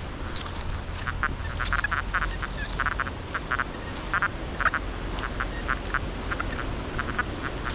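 Heavy wind rumbling on the microphone, with a rapid, irregular series of short nasal, buzzy chirps.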